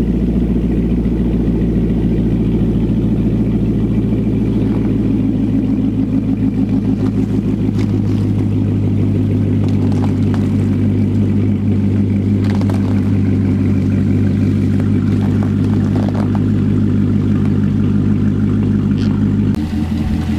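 C7 Corvette Stingray's 6.2-litre LT1 V8 idling steadily through its quad-tip exhaust as the car creeps along. The tone thickens about eight seconds in and shifts abruptly near the end.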